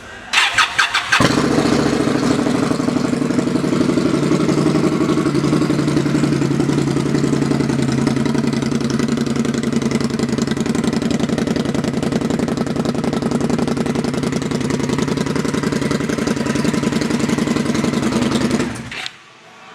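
Indian Scout Sixty's liquid-cooled V-twin, breathing through Vance and Hines slip-on mufflers, is cranked by its starter for about a second, then catches and idles steadily. The sound stops suddenly near the end.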